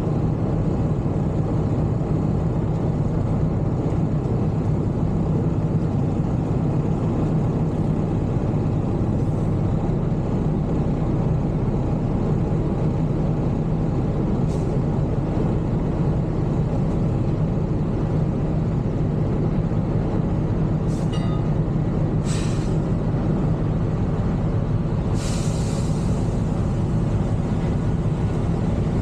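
Semi truck's diesel engine running steadily, with a few short hisses of air from the air brake system, the longest about three-quarters of the way through.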